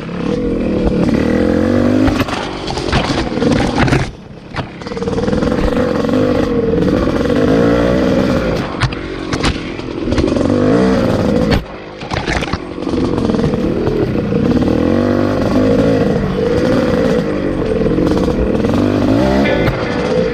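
Two-stroke dirt bike engine being ridden hard, its pitch rising and falling with the throttle. The throttle comes off briefly about four seconds in and again near twelve seconds, with scattered knocks and rattles from the bike over rough ground.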